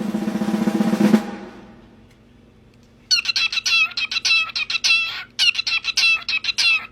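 A drum roll with a low hum ends about a second in. From about three seconds in, a small bird chirps in fast, rapid runs of short, bright notes, with a brief break midway.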